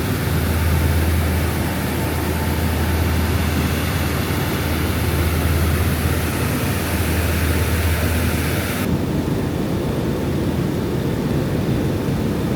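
Steady aircraft engine noise, a loud even rush with a strong low hum. About nine seconds in the sound changes abruptly and loses most of its high hiss.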